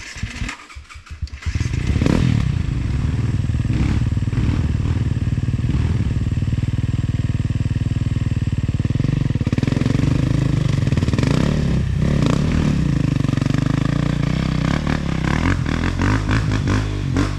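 Off-road motorcycle engine sputtering into life in the first second or so, then running loud and steady at high revs. The revs rise and fall around the middle and again near the end.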